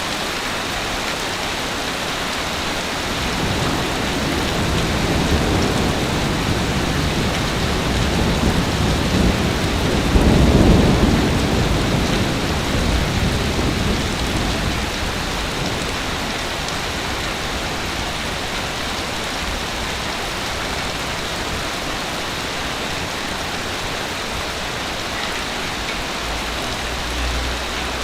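Ocean surf washing on a beach in a steady hiss, with one wave building and breaking with a low rumble about ten seconds in, then fading back.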